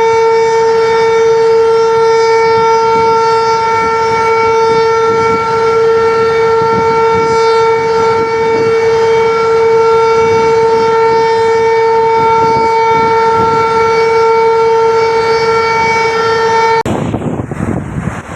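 Dam spillway warning siren sounding one long, steady, unwavering tone that cuts off suddenly near the end, the signal given when the spillway gates are operated. A rushing noise of water and wind is left once it stops.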